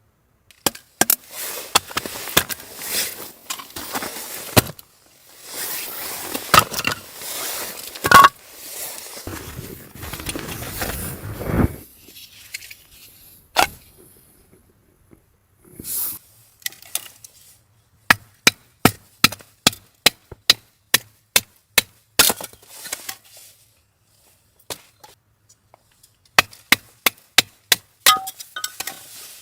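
Chopping on wood: a run of sharp, even strikes about two a second, with scattered knocks and handling rustle around them.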